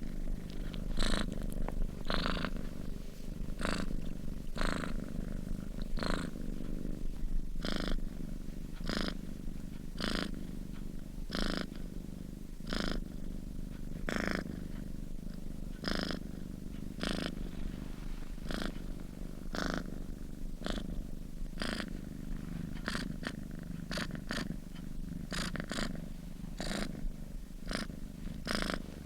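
A sleeping domestic cat purring steadily, a low rumble that swells with each breath, a little more than once a second.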